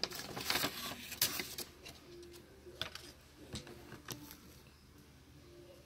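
A container of slime being shaken by hand, rattling and clicking quickly for about the first second and a half, then a few single clicks near the middle.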